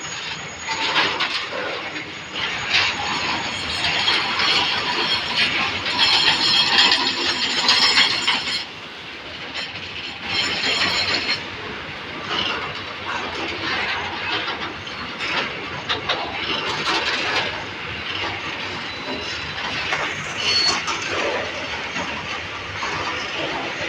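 A train passing close by on the track, its wheels clattering over the rails. The noise is loudest in the first third and drops abruptly about a third of the way in, then runs on more evenly.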